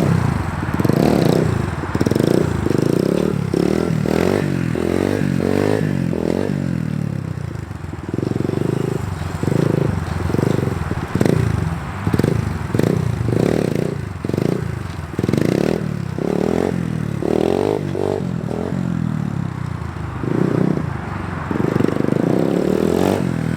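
Small dirt bike engine revved up and dropping back over and over, a rise and fall every second or two, as the rider pulls short warm-up wheelies and slides.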